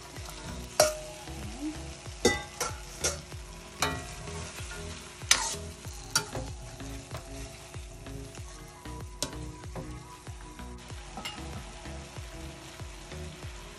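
Chicken feet sizzling in soy sauce in a stainless steel pot while being stirred, the utensil clicking and knocking against the pot several times in the first half, then less often.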